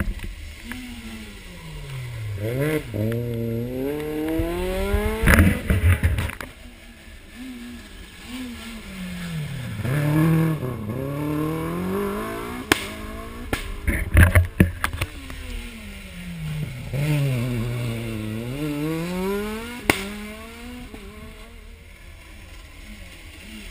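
Rally car engine working through hairpin bends: the pitch drops as it brakes and shifts down, then climbs as it accelerates away, three times over. Sharp cracks and bangs come at the two loudest moments.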